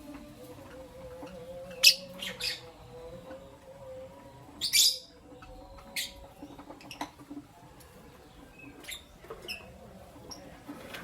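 Lovebirds chirping: scattered short, shrill chirps, loudest about two seconds in and again near five seconds, with fainter ones later.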